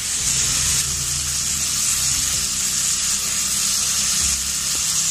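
Tomato sauce sizzling as it hits hot oil, fried onions and ginger-garlic paste in a steel kadai: a steady, bright hiss.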